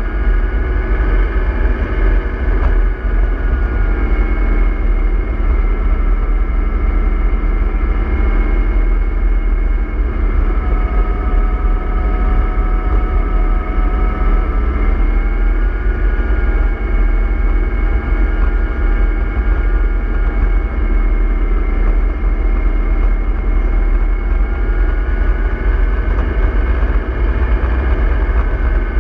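Diesel bus engine sound from a remote-control model MAN 24.310 bus, running steadily with a deep rumble, its pitch drifting slightly up and down.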